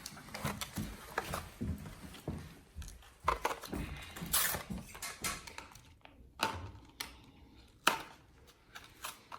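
Plastic blister packaging of a toy car being handled and pried open: irregular crackles, clicks and small knocks of the stiff plastic and card.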